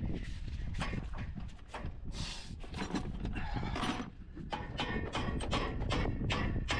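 Irregular clicks and knocks over a steady low rumble, typical of hand tools and metal parts being handled.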